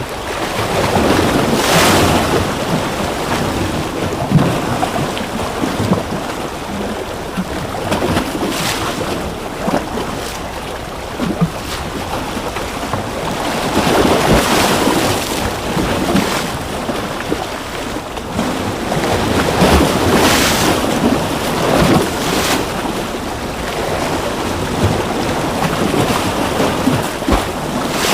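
Ocean waves breaking and washing ashore, the surf swelling and easing roughly every six seconds.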